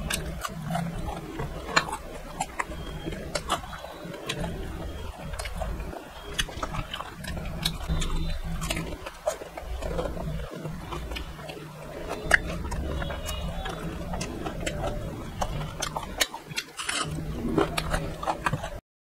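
Close-miked chewing and lip-smacking of a man eating fried fish with his hand, with many small wet mouth clicks. The sound cuts out abruptly just before the end.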